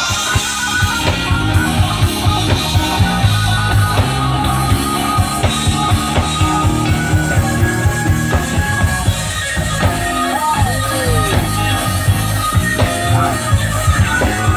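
Live band playing a blues number on drum kit, bass and guitar. About ten seconds in, a single note bends up and back down.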